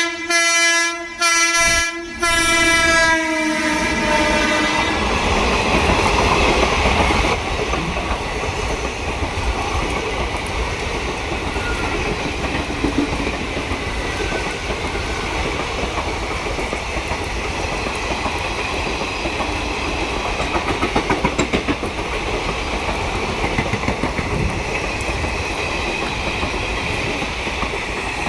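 Indian Railways electric locomotive horn sounding in three blasts, the last one held and trailing off about four seconds in. Then comes the steady rush of the coaches passing at speed close by, with wheels clattering over the rail joints.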